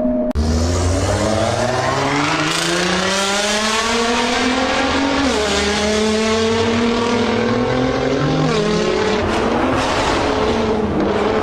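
Car engine accelerating hard under load, its pitch climbing steadily and then dropping at gear shifts about five and eight and a half seconds in.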